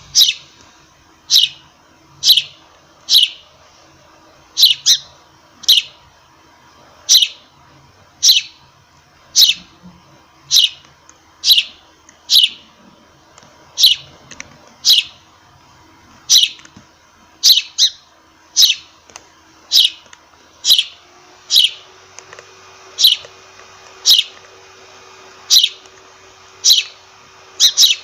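A sparrow chirping, one short sharp note about every second, now and then two in quick succession. A faint steady hum lies underneath and shifts slightly higher partway through.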